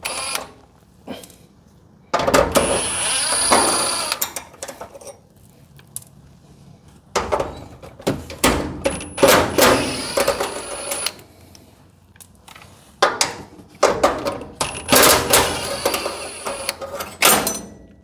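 Cordless impact gun with a size 11 socket hammering out the bolts of a garage door hinge, in several bursts of a second or two with a high motor whine, and the clink of loosened hardware between them.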